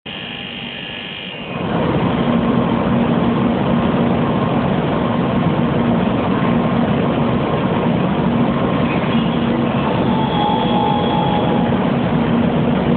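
Steady running noise of an N700 series Shinkansen standing at a station platform, with a level low hum. The noise jumps up about a second and a half in and then holds steady.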